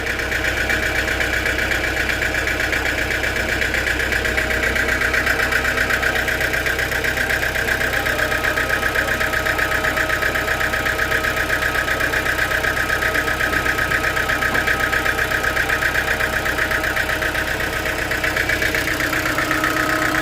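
Sawmill machinery running steadily, with a continuous high whine over a low hum.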